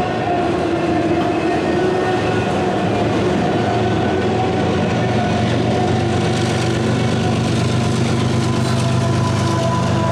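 Freight train rolling past, its cars running steadily over the rails, with a few faint steady ringing tones above the rumble.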